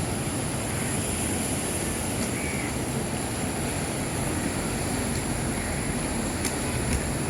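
Sea waves and wind making a steady rushing noise, with a thin high-pitched whine held above it and a few faint clicks near the end.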